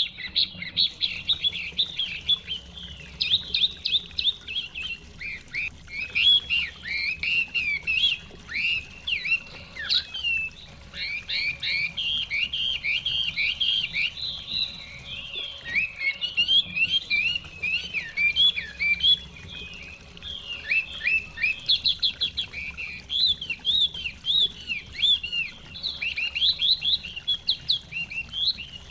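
Chinese hwamei (họa mi) singing a continuous, rapid, varied song of whistled notes and glides, with short pauses around ten and sixteen seconds in.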